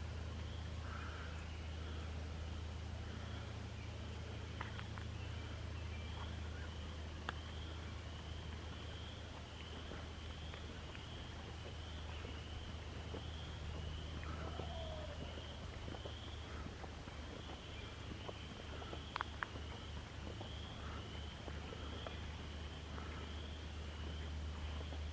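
A small animal's short, high call repeating about once a second over a steady low rumble, with a few faint clicks.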